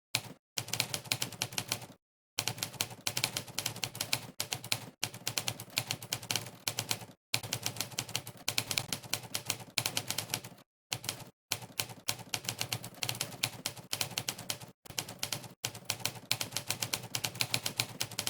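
Monkeytype's typewriter keypress sound effect, one sampled typewriter key strike per keystroke, in a fast irregular run of many clicks a second while someone types quickly. It stops briefly a few times, about two seconds in, near seven seconds and near eleven seconds.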